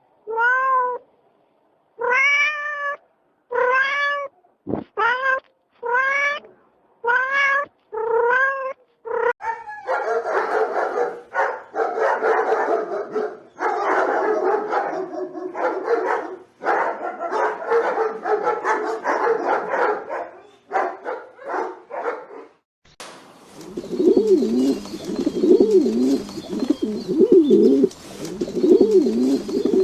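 A cat meowing over and over, about once a second, each meow rising and falling in pitch. It gives way to a denser, rougher run of animal calls, and about three-quarters of the way through a new clip starts with pigeons cooing.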